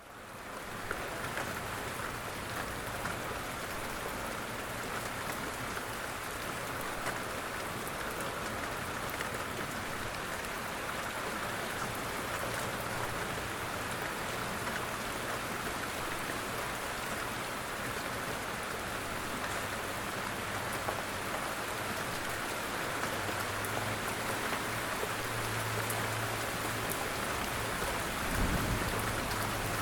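Steady rain falling in a dense, even hiss, fading in at the start, with a brief low rumble near the end.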